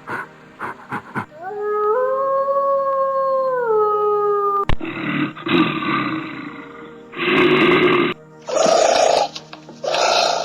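A run of different animal calls: a few quick repeated calls at the start, then one long pitched call that rises, holds and drops. After that come rough, noisy calls, with two shorter ones near the end.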